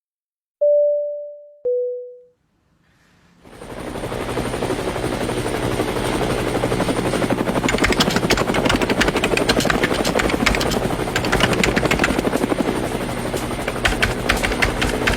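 A two-note descending chime, then aircraft engine noise that comes up a little after three seconds in and runs on steadily with a rapid chopping beat.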